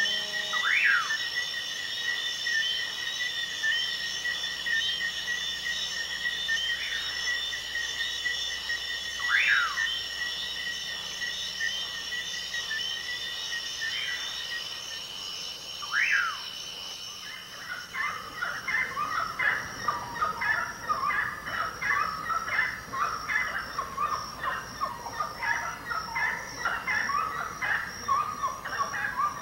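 Rainforest chorus: steady high insect trilling at several pitches, broken by a few short falling calls. About two-thirds of the way through, the trilling gives way to a dense, rapid chatter of bird calls.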